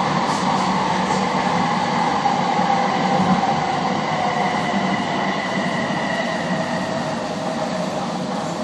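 Vancouver SkyTrain metro train running, heard from inside the car: a steady rumble of wheels on track under an electric motor whine that slowly falls in pitch as the train slows.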